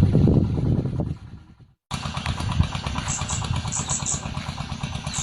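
A loud low rumble fades out, then after a cut comes a small engine idling with a steady, even pulse, like a motorcycle. Short, very high bird chirps sound over it in quick pairs from about three seconds in.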